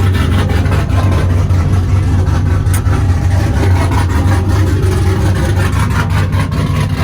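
Loud vehicle engine running steadily, a strong low drone held at one pitch with rough noise over it.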